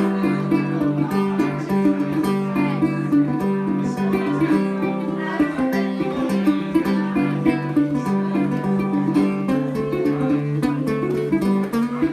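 Acoustic blues guitar playing an instrumental break between sung verses, with a steady alternating bass line under plucked melody notes.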